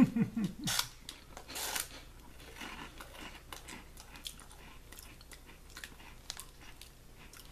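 Crunchy chewing of an Umaibo puffed corn snack stick, with two louder crunches in the first two seconds and then quieter, scattered chewing clicks.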